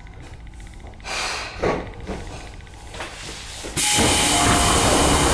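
Interior of a Tobu 9000 series commuter train car: a short hiss of compressed air about a second in, then a sudden, much louder steady rush of rail noise near the end.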